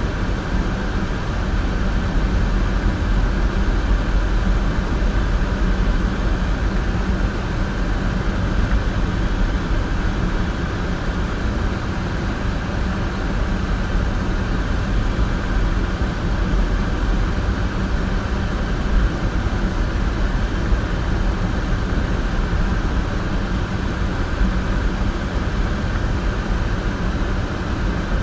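Steady road and engine noise of a car driving on a snowy road, a low hum under an even rush of tyre and wind noise. A couple of brief knocks come about two-thirds of the way through.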